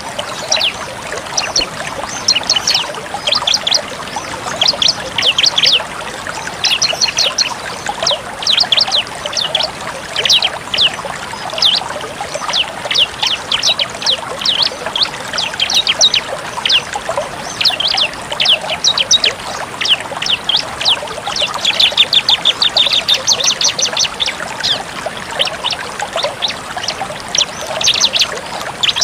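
Bar-winged prinia (ciblek) singing in rapid bursts of high, sharp chirps run together into fast trills, the full 'tembak' song.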